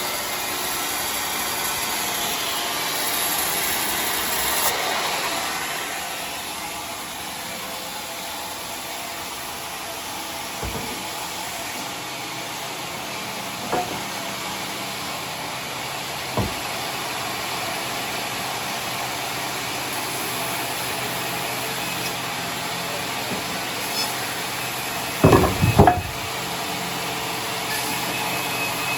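Sawmill machinery running steadily, with a few sharp wooden knocks and a loud cluster of clunks near the end.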